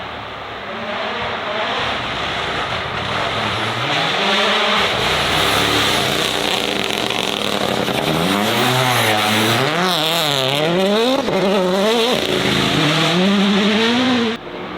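Race car engine revving hard, its pitch swinging up and down rapidly and repeatedly through the second half, before cutting off abruptly near the end.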